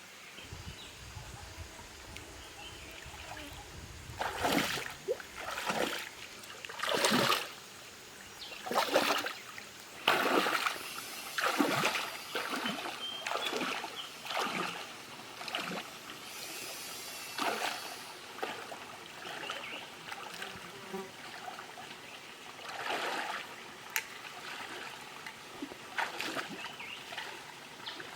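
Water splashing in a shallow stream, a quick run of separate splashes in the first half and a few more near the end, over a steady trickle.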